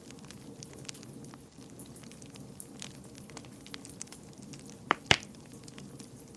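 Wood fire burning in a fireplace: a steady low hiss with scattered small crackles, and two sharp, loud pops close together about five seconds in.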